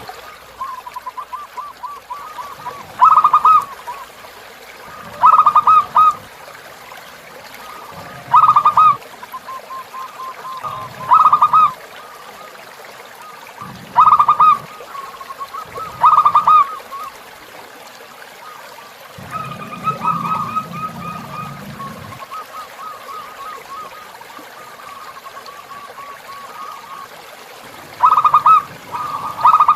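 Zebra dove (perkutut) cooing: short, loud, rapidly pulsed phrases repeated every two to three seconds, with softer trilling coos between them and a longer lull in the loud phrases in the second half, over the steady trickle of a flowing river.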